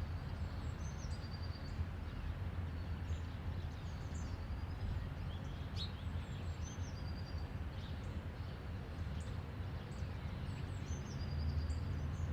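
Outdoor ambience: small birds chirping and trilling every few seconds over a steady low rumble.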